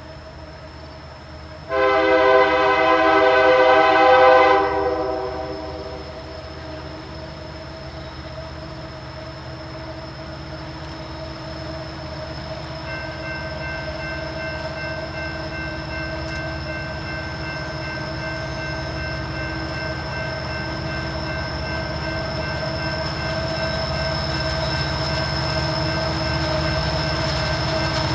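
Locomotive air horn sounds one long chord blast about two seconds in. After it, the rumble of an approaching train builds steadily louder, with steady high tones running over it.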